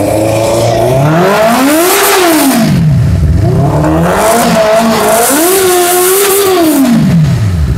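Benelli TNT 600i inline-four engine on its stock silencer, revved twice from idle. The pitch climbs and falls back within the first three seconds, then climbs again and is held high for a couple of seconds before dropping back to idle near the end.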